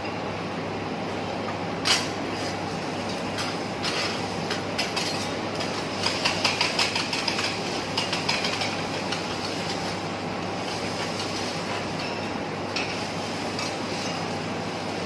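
Metal spatulas clacking and scraping on a teppanyaki griddle over a steady hiss: one sharp clack about two seconds in, then a quick run of clacks around the middle.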